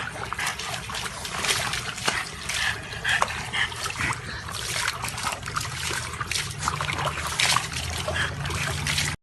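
Water splashing and trickling in quick, irregular small splashes.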